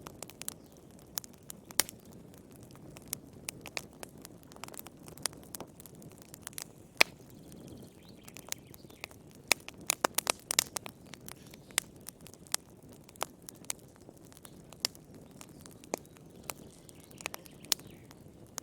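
Wood fire crackling in a fireplace: irregular sharp pops and snaps over a soft low rush of the flames, with a quick cluster of pops about ten seconds in.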